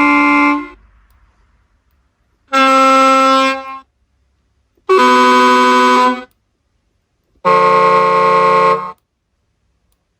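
Servonaut SM7 RC sound module playing truck horn samples through its small speaker: four horn blasts of about a second each, a second or so apart, each a different horn sound as the horn setting is stepped through to choose one.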